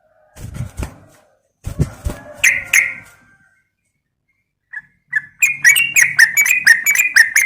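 Yellow-vented bulbul calling. A couple of rough rustling thumps with a few notes come first, then from about five seconds in a quick run of sharp chattering notes, about five a second.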